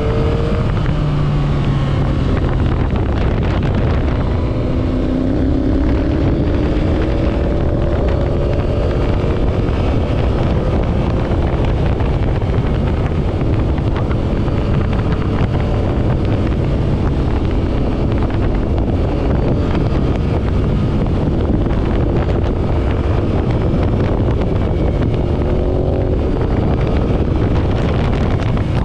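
Motorcycle engine running while riding, with wind buffeting the microphone. The engine pitch shifts with speed and rises about five seconds in.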